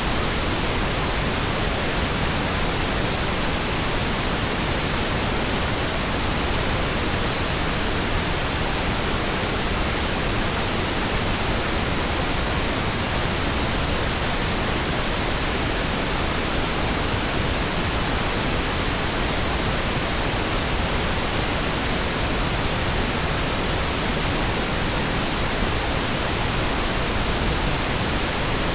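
Steady, even pink noise: a smooth, continuous hiss spread over all pitches, with no changes or interruptions.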